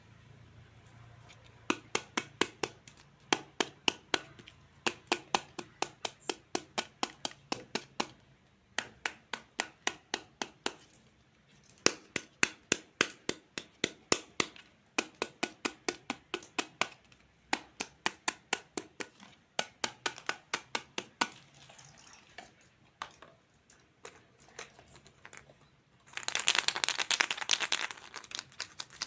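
Toy fruit being cut with a plastic toy knife: runs of sharp, crisp clicks and cracks, about three or four a second, with short pauses between runs. About 26 seconds in, a dense crinkling of plastic takes over.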